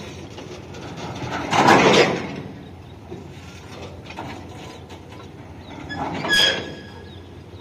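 Freight train wagons rolling slowly past on the rails, with two louder surges of wheel-on-rail noise, about a second and a half in and about six seconds in. The second surge carries a brief high squeal.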